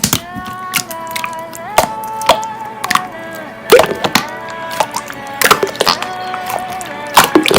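Slime being pressed and poked, making sharp, irregular clicking pops, over a soft background melody.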